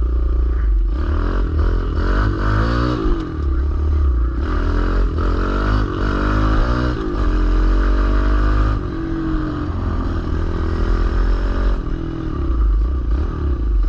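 Kawasaki KLX110L pit bike's small single-cylinder four-stroke engine under way, its pitch rising and dropping back several times as it is revved through the gears, then running steadier for a few seconds.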